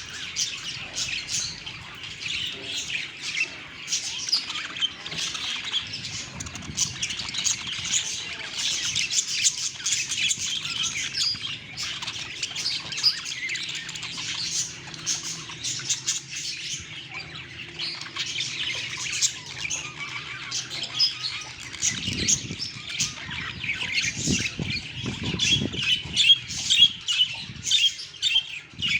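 Flock of small parrots chattering: many overlapping chirps and squawks, with louder, sharper calls near the end.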